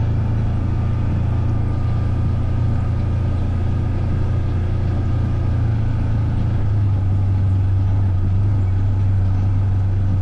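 Engine of a ridden vehicle running at a steady speed, a constant low drone with no change in pitch.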